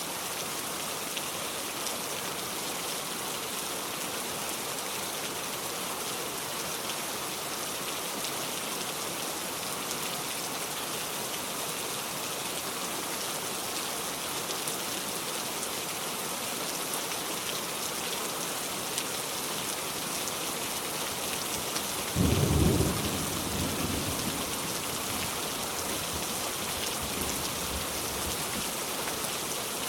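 Steady heavy rain hissing throughout, with a sudden clap of thunder about two-thirds of the way in whose low rumble fades over a couple of seconds.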